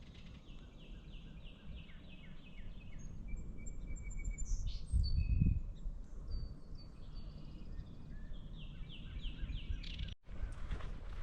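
Songbirds singing: a repeated series of quick down-slurred whistles, about four a second, at the start and again near the end, with other birds' thin whistles in between, over a low outdoor rumble that swells about five seconds in. Footsteps begin just before the end.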